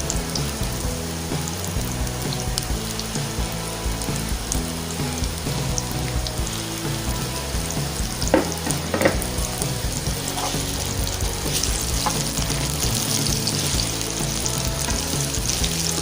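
Potatoes, carrots and bell peppers frying in hot cooking oil in a pan, a steady sizzle, with two sharp knocks a little past halfway through.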